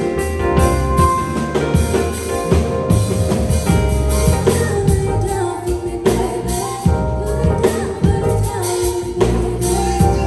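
Live band performing a song, with singing over a drum beat.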